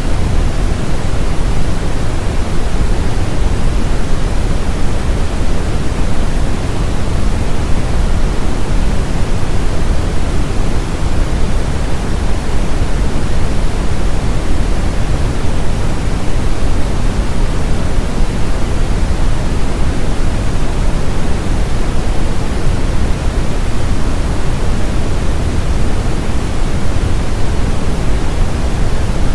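Steady brown noise: a deep, even rushing hiss, strongest in the low end and falling away toward the highs, with no changes.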